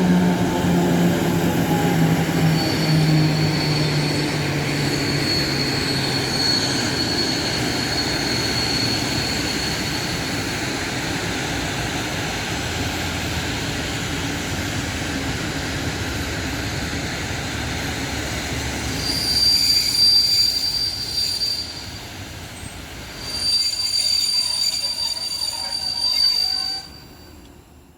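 Train moving through a station: a pitched running hum falling in pitch over the first few seconds, a steady rumble of wheels on rail, and high-pitched wheel squeal that comes in three stretches, the last two near the end.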